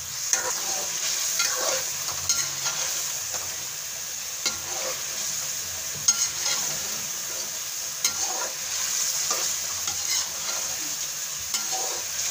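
Chicken, tomatoes and green chillies sizzling in a metal karahi while a metal spoon stirs through them, scraping and clinking against the pan every second or two. The steady sizzle is the tomato liquid being fried off (bhunai).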